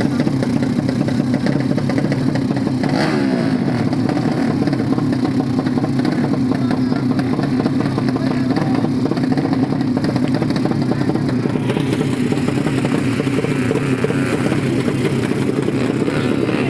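Motorcycle engine of a 200cc horizontal-cylinder underbone drag bike running loudly and steadily, its pitch gliding briefly about three seconds in, with more hiss from about twelve seconds on.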